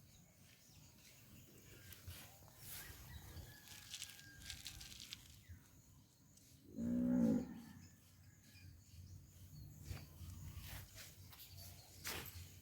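One short call from a farm animal about seven seconds in, over faint outdoor background noise.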